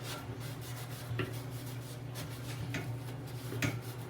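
Sponge scrubbing grimy stainless steel, a rapid scratchy rubbing with three light metallic knocks, the last near the end the loudest, over a steady low hum.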